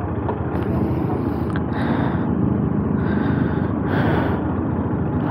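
Motorcycle engine running steadily while under way, with wind rushing over the microphone in gusts.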